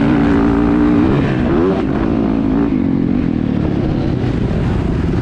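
Motocross dirt bike engine running loud, its pitch holding, then rising briefly about a second and a half in and falling back as the throttle is worked.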